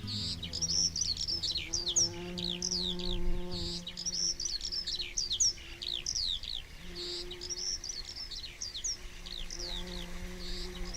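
Birds chirping in a rapid run of short, downward-sweeping notes, over soft held musical notes that shift every couple of seconds.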